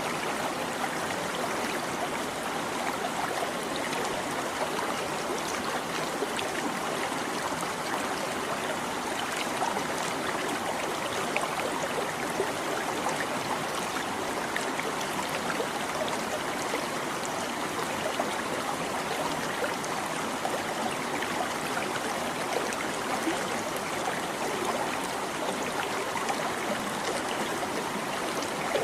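A small stream babbling steadily, with many small splashes and gurgles.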